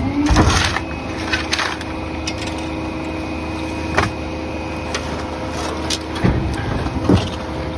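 Rear-loader garbage truck's engine and hydraulic packer running steadily while the blade crushes debris, with sharp cracks of wood breaking about four and seven seconds in.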